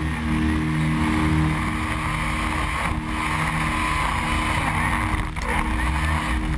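Supercharged snowmobile engine running steadily under power.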